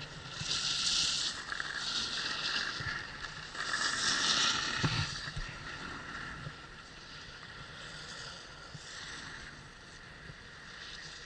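Skis hissing and scraping over snow through turns, three louder surges of edge scrape in the first five seconds, then a quieter, steady slide with wind rumbling on the microphone.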